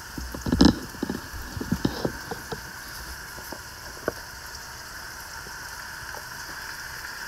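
Hot oil sizzling steadily in an Instant Pot's non-stick inner pot on the sauté setting as marinated pork goes in to brown. A few sharp knocks and clatters in the first two seconds.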